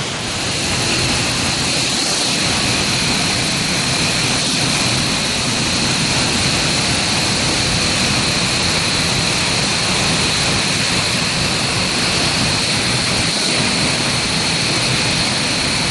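Waterfall heard from right behind the falling water: a really loud, steady rush of pouring water with no let-up.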